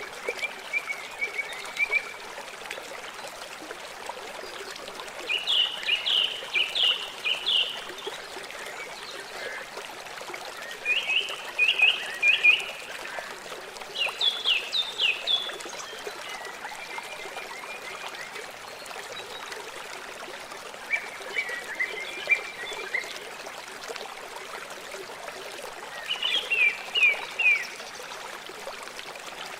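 River water flowing steadily, with about six short runs of rapid, high, repeated chirping calls from a small animal rising above the water noise every few seconds.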